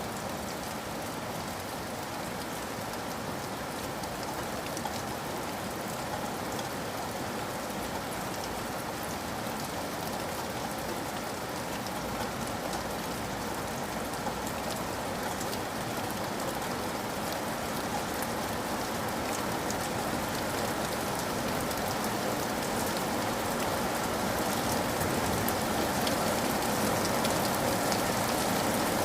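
Steady rain with fine, dense drop patter, growing a little louder toward the end.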